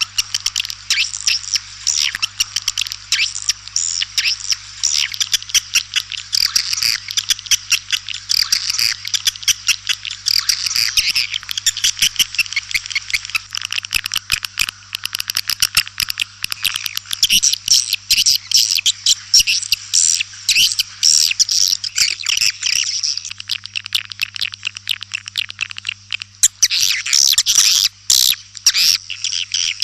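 White-nest swiftlets twittering: a dense, continuous chatter of rapid chirps and clicks, a swiftlet calling sound made to lure the birds into a nesting house. A faint steady hum runs underneath.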